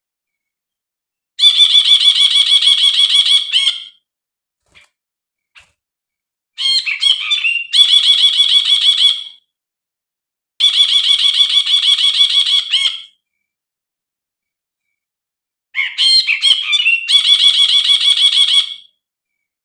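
Brinji, a bulbul, calling in four bursts of rapid, repeated chattering notes, each lasting about two to three seconds. The second and last bursts begin with a short, varied twitter.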